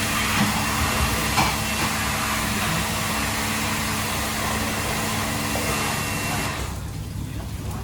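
Steady whirring of a motor-driven fan with a hum through it, which cuts off about six and a half seconds in.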